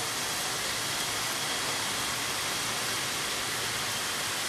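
Cubes of raw chicken fillet sizzling in hot oil in a stainless steel frying pan as more pieces are laid in; a steady, even hiss.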